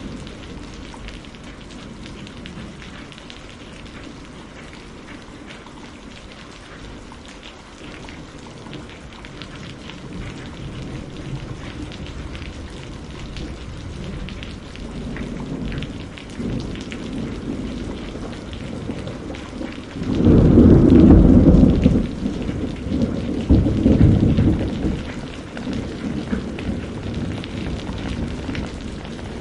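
Steady rain falling, with thunder building as a low rumble partway in, then a loud peal about two-thirds of the way through and a second peal a couple of seconds after it.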